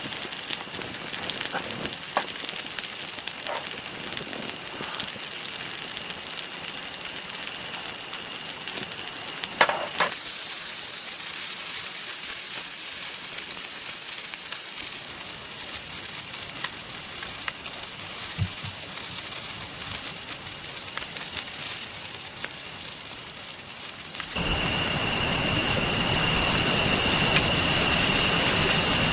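Steady rain with a campfire crackling and giving off scattered sharp pops. About 24 seconds in, a louder, deeper rushing sound takes over.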